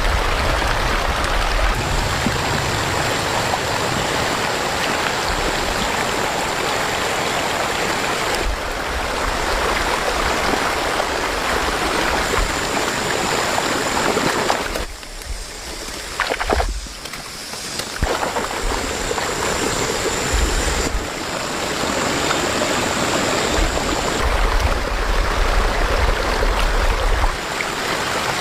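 Fast-flowing floodwater rushing steadily, with a brief drop in level about halfway through.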